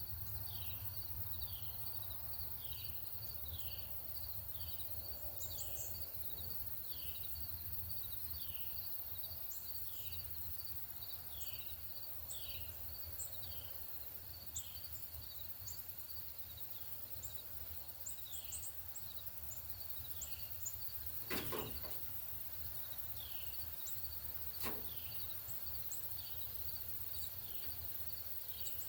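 A northern cardinal singing a long series of clear downslurred whistles, about one a second, over a steady high insect trill and scattered high chips from other small birds. Two sharp clicks come about two-thirds of the way through, a few seconds apart.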